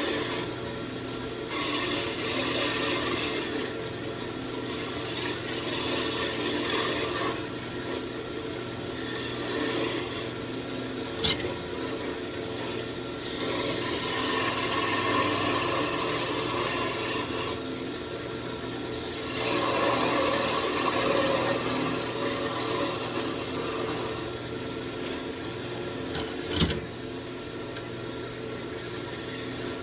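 Wood lathe running with a steady hum while something is rubbed against the spinning walnut wand in repeated passes of a few seconds each. Two sharp knocks come about a third of the way in and near the end.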